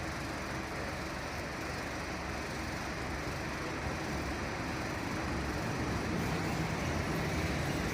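A fire truck's engine running steadily, a little louder in the last couple of seconds.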